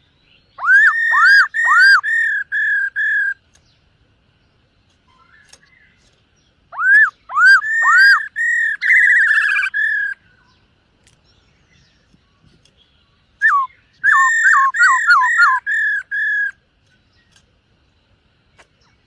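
Black-throated laughingthrush singing three phrases of loud, clear whistled notes, each a quick run of rising, hooked whistles.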